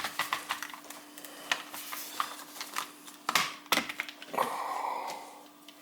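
Handling of a wall thermostat, taken off its base to check the pins: a run of light, irregular plastic clicks and taps, with a short rustle near the end. A faint steady hum runs underneath.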